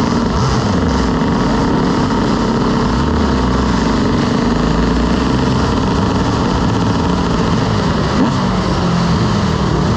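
Motorcycle engine running while riding, its pitch mostly steady and rising and falling with the throttle near the end, over a steady rushing noise.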